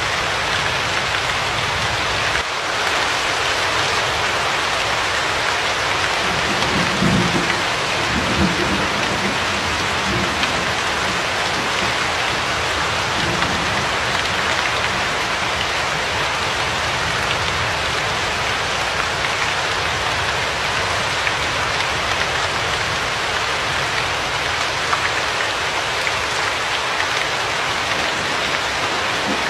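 Steady, dense rain hiss, like heavy rain falling on a surface, with brief low rumbles between about seven and ten seconds in.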